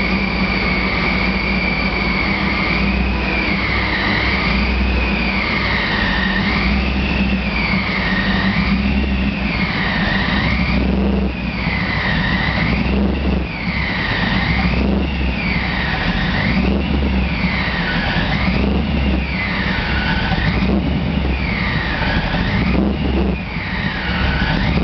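Supercharged 350 V8 of a 1989 Pontiac Formula being revved up and down over and over, about once every two seconds. The high supercharger whine rises and falls with each rev over a steady low engine rumble, and the revs grow deeper after the first few seconds.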